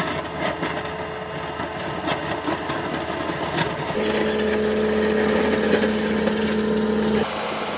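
Heavy machinery engine running steadily under load. About four seconds in, the sound changes abruptly to a louder run with a steady whine, which stops suddenly near the end.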